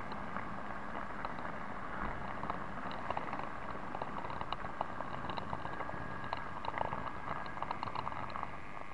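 009 narrow gauge model train running along the track: a steady hiss with many small, irregular clicks and ticks from the wheels on the rails.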